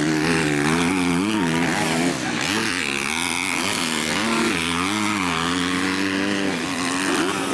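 250 cc racing motorcycle engines revving hard, their pitch rising and falling over and over as the riders throttle on and off.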